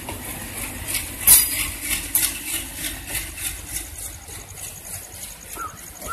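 Train of Talgo coaches behind a WDM3D diesel locomotive rolling slowly past, wheels clicking in a quick even rhythm over rail joints, with one loud clank about a second in, over a low steady rumble.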